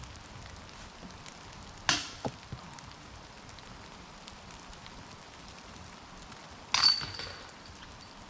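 A disc golf disc striking the metal basket: a sharp metallic clank that rings on for over a second, near the end. About two seconds in there is an earlier sharp knock.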